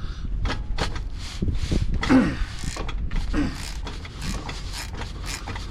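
Irregular metallic clicks and knocks of hand tools on the rear driveshaft bolts, with a couple of short falling creaks about two and three and a half seconds in.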